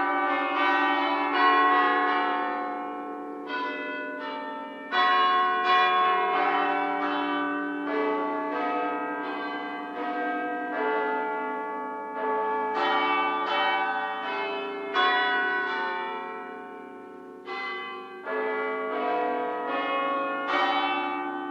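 Church bells ringing: several bells struck one after another, each ringing on and overlapping the next.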